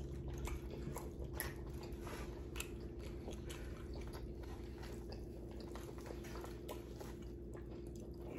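Faint close-up chewing and biting with small wet mouth clicks, people eating barbecue meat off the bone, over a steady faint hum.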